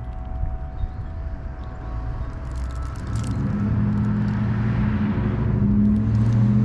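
Low engine rumble with a steady hum that grows louder from about halfway through. There are a few faint high chirps or ticks before it.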